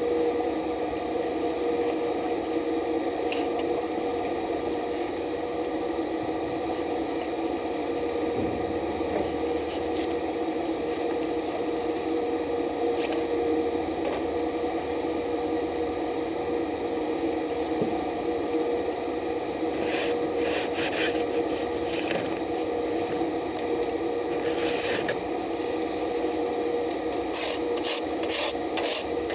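Steady machine hum, with a quick run of rasping, scraping strokes on metal near the end, about two or three a second.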